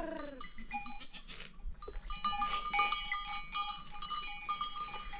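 Goats and sheep bleating: one falling bleat at the start, then from about two seconds in many overlapping bleats from the flock.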